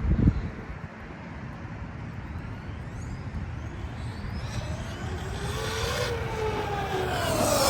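Traxxas XRT Ultimate RC monster truck's electric motor whining as it is driven, the pitch rising and then falling as it speeds up and passes. A louder pass with falling pitch comes near the end, after a brief low thump at the start.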